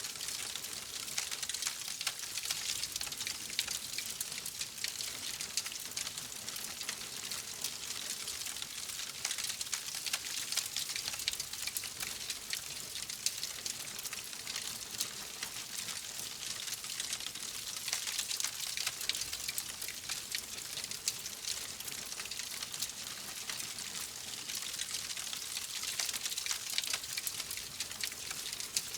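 Wood fire crackling steadily: a dense run of small pops and snaps over a soft hiss, with no single loud crack standing out.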